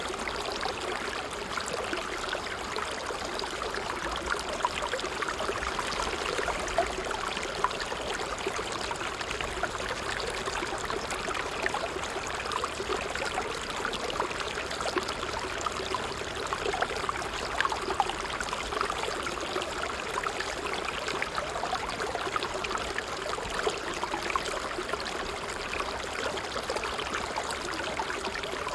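Water trickling steadily over stones, a continuous babble with small splashes and gurgles.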